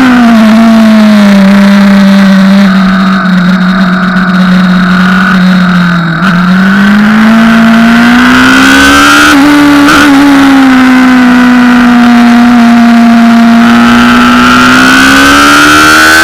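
Honda CBR600RR's inline-four engine heard onboard at speed, its pitch sinking slowly for about six seconds as revs drop, then climbing, holding steady, and rising again near the end, with a brief break about six seconds in and again about ten seconds in.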